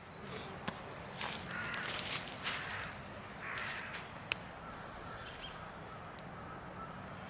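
A few harsh, cawing bird calls in the first four seconds, with a single sharp click about four seconds in.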